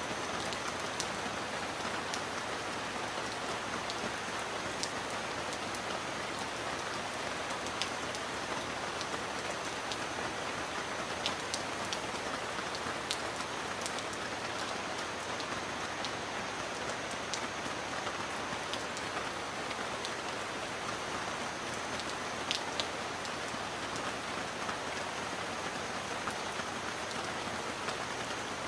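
Steady rain, an even hiss with a few scattered, sharper drop ticks standing out now and then.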